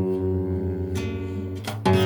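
Acoustic guitar chords strummed and left ringing between sung lines, with a fresh strum near the end.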